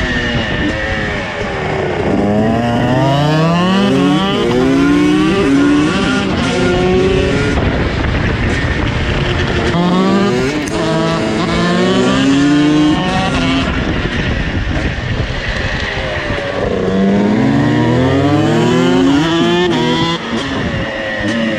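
KTM 250 SX and 125 SX two-stroke supermoto bikes revving hard and accelerating, the pitch climbing and dropping back again and again as they shift up through the gears, in three main runs.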